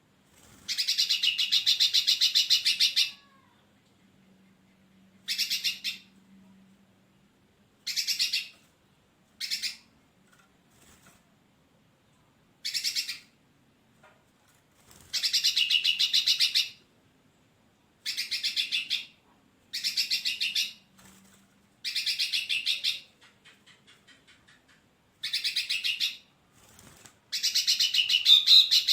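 Hairy-backed bulbul (brinji rambut tunggir) singing: a series of rapid trilled phrases, each half a second to two and a half seconds long, repeated with short pauses between them.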